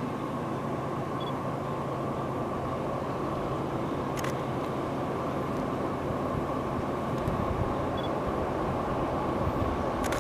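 Distant CPKC train's diesel locomotives approaching out of sight: a steady rumble with a low engine hum, slowly getting louder.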